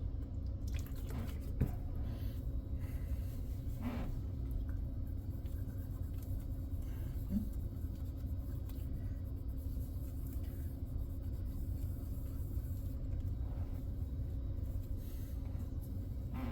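Steady low rumble and hum of background noise, with a few faint light ticks.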